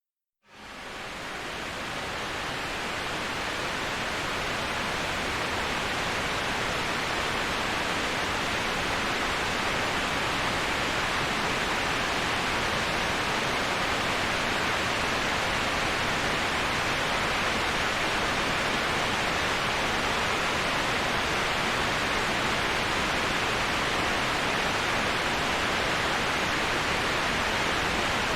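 Steady rushing hiss of waterfall white noise, fading in from silence over the first couple of seconds and then holding even and unchanging.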